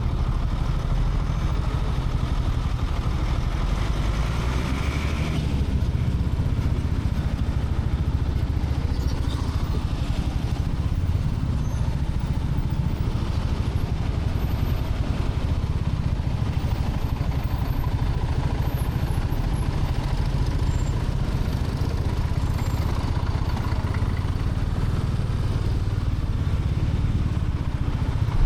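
Royal Enfield Classic 350's single-cylinder engine running steadily under way.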